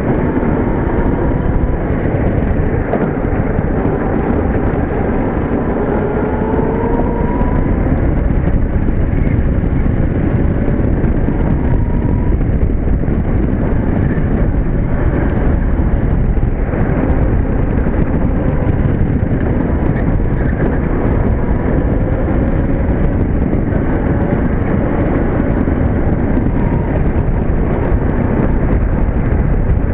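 Electric go-kart driven at speed: steady wind and rolling rumble, with a faint electric motor whine that rises and falls in pitch several times as the kart speeds up and slows for corners.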